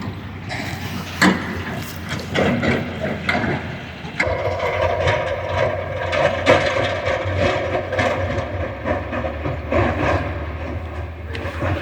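Sonalika DI 50 tractor's diesel engine running, with scattered clanks and knocks. About four seconds in the sound grows louder and a steady higher whine joins the engine.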